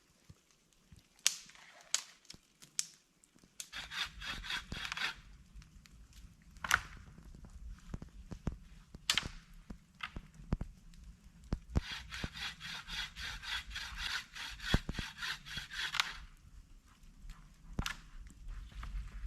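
A hand tool rasping on wood in two stretches, one of about a second and one of about four seconds, with sharp knocks and clicks between them.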